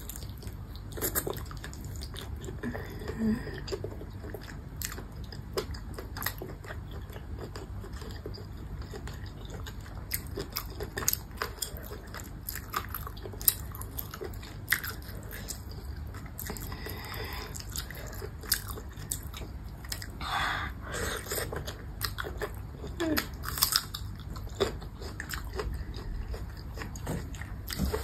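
Close-up chewing and biting of baby squid: irregular wet mouth clicks and soft chewing sounds.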